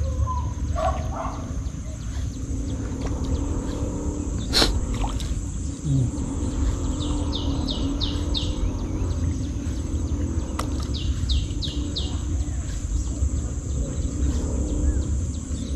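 A bird calling in two short runs of about four quick, high, downward-sliding notes, a few seconds apart. A steady low rumble runs underneath.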